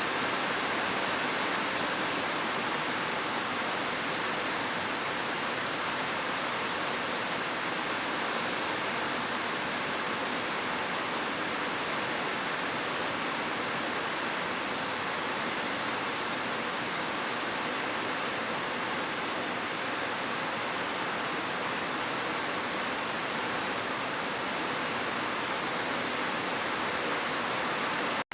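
Heavy rain falling in a steady, even hiss, with no separate drops or thunder standing out.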